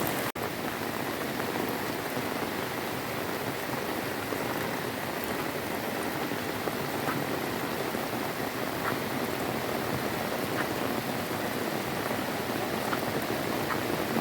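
Heavy rain falling steadily, a dense even hiss of drops on surfaces, cut off for an instant near the start.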